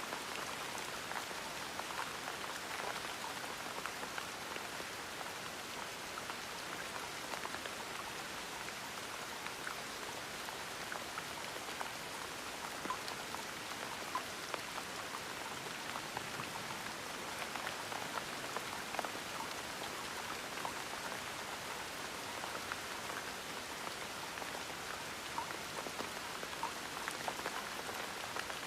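Steady gentle rain, with scattered individual drops ticking through the constant patter.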